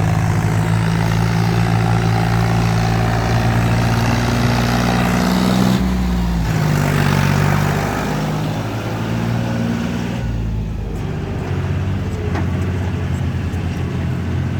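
Tractor's diesel engine running under load on the move, with the engine note shifting down and back up about six seconds in and again near eleven seconds.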